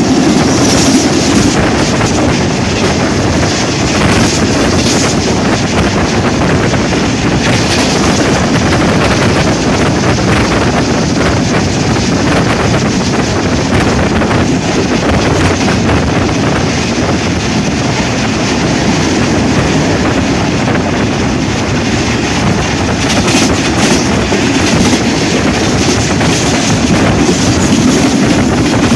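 Karakoram Express passenger train passing close by at high speed: a loud, steady rush of wheels on rails with fast clickety-clack over the rail joints. Some wind buffeting on the microphone.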